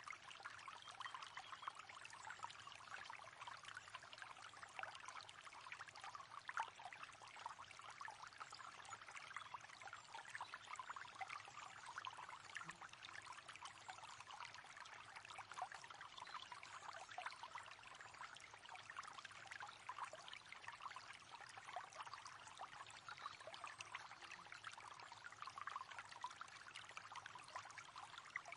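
River water running: a faint, steady babble of flowing water.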